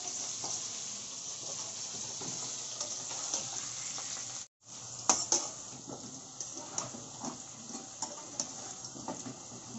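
Potato pieces frying in hot oil in a pan, sizzling steadily. In the second half a utensil stirs them, clicking against the pan several times. The sound cuts out for a moment about halfway.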